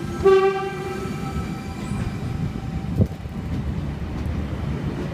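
Intercity V set electric train pulling out of the station, with a steady rolling rumble and a short pitched tone lasting about a second near the start. A single sharp knock comes about three seconds in.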